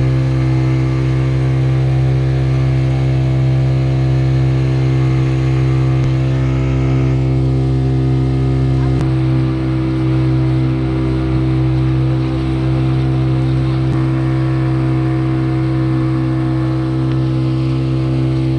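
Speedboat engine running at a steady high speed, holding one unchanging drone over a constant rushing noise.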